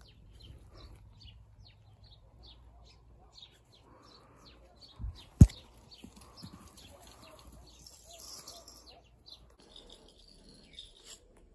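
Small birds chirping, short high downward-sliding calls repeating several times a second, with one sharp knock about five seconds in.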